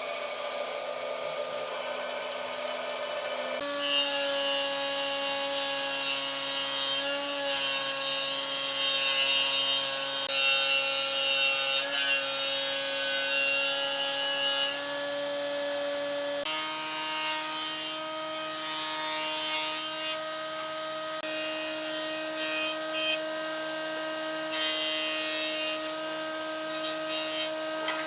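Electric power tool working solid wood: a steady motor whine with a rough abrasive rubbing. The rubbing gets louder about four seconds in, then eases about two-thirds of the way through as the motor's pitch steps up.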